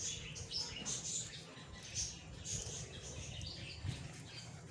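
Small birds chirping in short, irregular high-pitched notes, several a second, over a low background hum.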